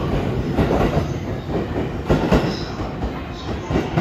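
JR East E257 series electric multiple unit pulling slowly out of the station past the platform. Its wheels rumble and give uneven clacks over the rail joints, about five knocks, and the sound eases slightly as the last car passes and draws away.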